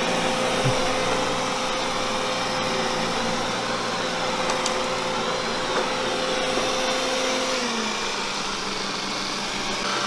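Roborock S6 MaxV robot vacuum running with its suction fan turned up for carpet, a steady whirring whine. About three quarters of the way through, its pitch drops as the carpet boost eases off when it leaves the rug for tile.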